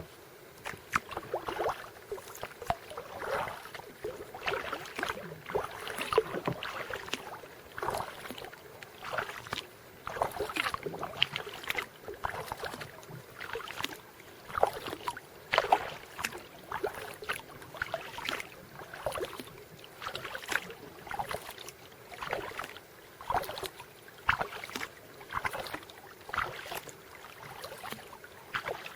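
Kayak paddle dipping into the water in steady alternating strokes, a short splash about every second or so.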